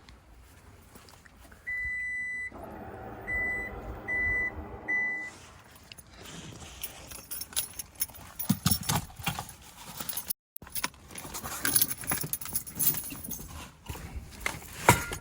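An electronic beeper sounds one longer high beep and then three short beeps over a low steady hum, followed by scattered clicks and clattering, like keys or gear being handled.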